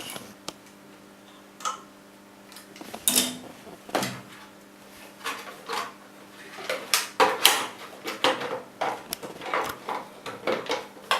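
Irregular clicks, knocks and light clatter of small hardware and tools being handled on the heater's housing. Sparse at first, then coming thick and fast from about halfway through.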